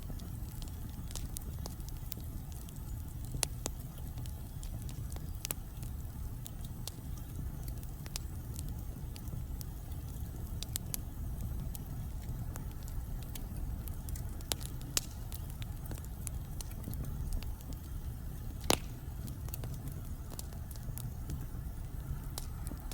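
Wood fire burning in a fireplace: irregular sharp crackles and pops over a steady low rumble of the flames. The loudest pop comes about three-quarters of the way through.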